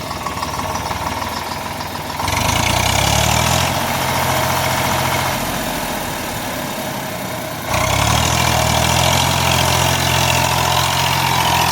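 Tractor engine running and being throttled up under load twice: it rises sharply about two seconds in, eases off a little, then rises again near eight seconds in, as the tractor strains to pull a stuck tractor free.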